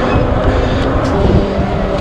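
Wind rushing and buffeting over the microphone of a moving electric bike, a dense, uneven rumble, with faint steady tones underneath.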